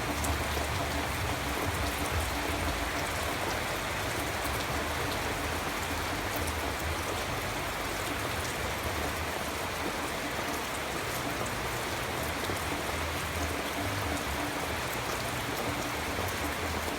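Steady rainfall, an even hiss with a low rumble beneath and faint scattered drop ticks.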